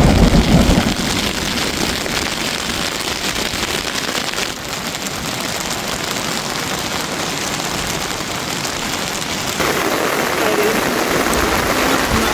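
Steady rain falling, an even dense hiss of drops on surfaces. A loud low rumble fades out in the first second.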